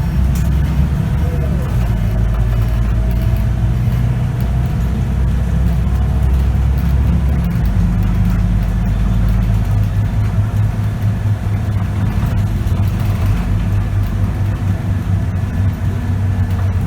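Scania K94UB city bus diesel engine and ZF automatic driveline running under way, heard from inside the bus. The engine note shifts up a little about seven seconds in.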